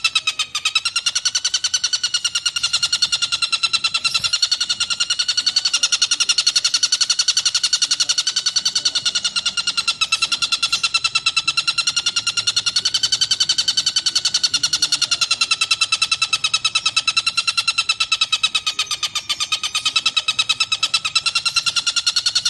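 Tengkek buto kingfisher giving a long, unbroken rapid chatter of harsh, evenly repeated notes, many to the second, the pitch wavering slightly.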